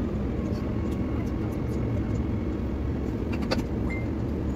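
Steady low rumble of an electric suburban train running, heard from inside the carriage as it comes into a station. A few faint clicks come near the end, with a brief high tone about four seconds in.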